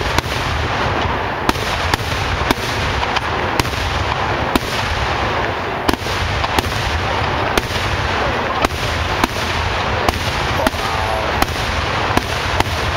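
Fireworks going off: sharp bangs a little more than once a second over a dense, steady rushing noise.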